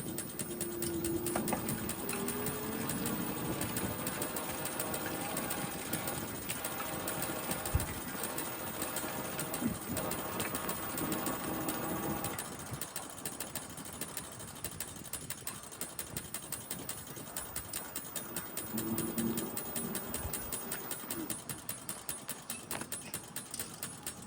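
Bicycle making a rapid, even ticking while being ridden: a mechanical noise from the bike that the rider finds annoying and sets out to fix.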